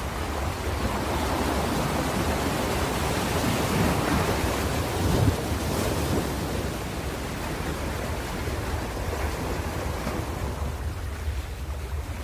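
Ocean surf: waves breaking and washing up the shore. The wash swells to its loudest about five seconds in, then eases back, over a steady low rumble.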